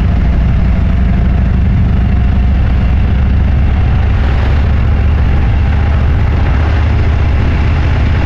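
Motorcycle engine running steadily at road speed, a low engine note with wind and road noise over it; the pitch shifts slightly about halfway through.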